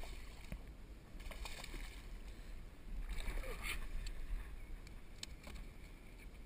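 Wind rumbling on the microphone over open-air background noise, with a few light clicks and knocks.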